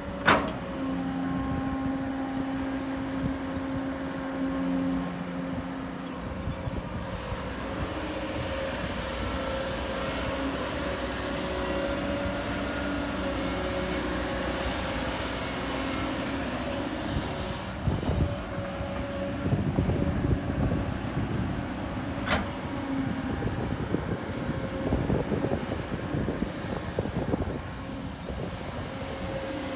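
Diesel engines of heavy earthmoving machinery running steadily. There is a sharp metallic clank right at the start and another about 22 seconds in, and a stretch of irregular knocking and rattling in the second half.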